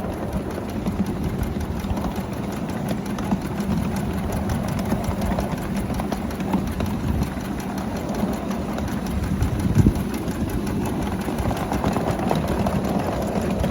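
A Railroad Supply Mikado ride-on miniature locomotive, heard from its cab: a steady engine drone with a constant low hum and scattered light clicks.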